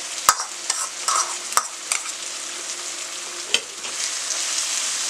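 Sliced bamboo shoots sizzling as they go into a wok of hot fried spice paste. A metal ladle scrapes them from a bowl and stirs them through, knocking sharply against the bowl and wok several times.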